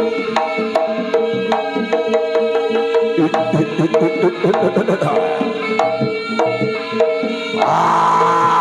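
Live Javanese jaranan ensemble music played through a PA system: hand drums over evenly repeated, ringing metal gong-chime strikes and a held tone. Near the end a louder held, wavering melodic line comes in.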